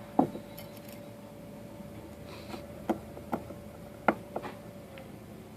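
Scattered light clicks and taps of small metal mortise-lock parts being handled and set down during hand assembly, over a faint steady hum.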